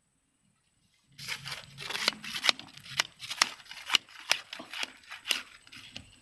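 Irregular sharp crackles and snaps with rustling between them, a few a second, starting about a second in after near silence.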